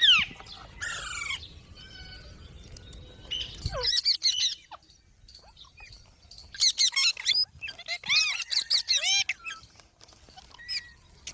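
Pet green parrot giving shrill, screeching calls in bursts. A falling call comes right at the start, then runs of quick, harsh calls about four seconds in, around seven seconds, and again between eight and nine seconds.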